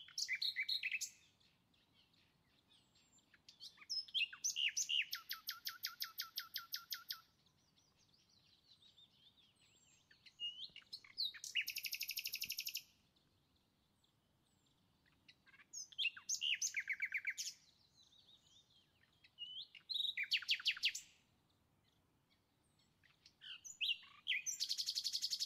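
A small songbird singing in six short bouts of fast, evenly repeated trilled chirps, each one to three seconds long, with near silence between the bouts.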